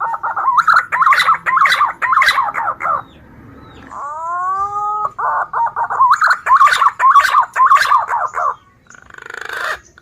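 Green pigeon (punai) song used as a hunting lure: a long curved whistled note followed by a run of rapid, wavering whistled notes, given twice. A short harsh, noisy note follows near the end.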